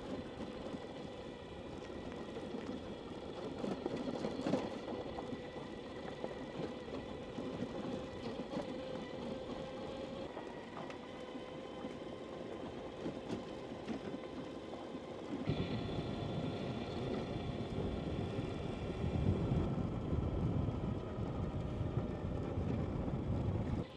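Energica Experia electric motorcycle riding on a gravel and dirt road: a steady electric-motor whine with several held tones over tyre and road noise. About two-thirds of the way through, a higher whine joins in and the low rumble gets louder.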